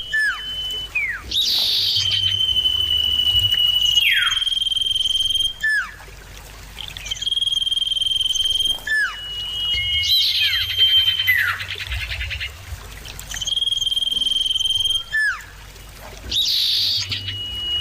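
Common iora (cipoh) singing: long, steady high whistles, each followed by quick downward-slurred notes, repeated every few seconds. A buzzy trill comes about ten seconds in.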